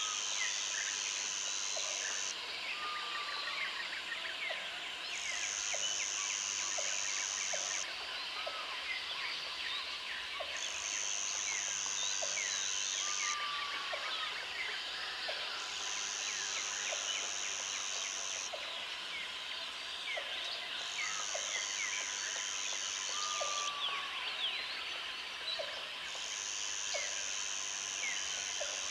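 Tropical forest ambience: a high, even insect buzz that comes in bouts of two to three seconds about every five seconds, over a dense chorus of quick bird chirps, with a short falling whistle heard three times.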